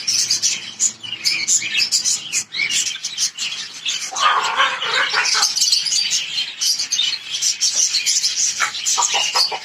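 A flock of caged lovebirds chirping and chattering without pause in many overlapping rapid high calls, with a louder, harsher burst about four seconds in.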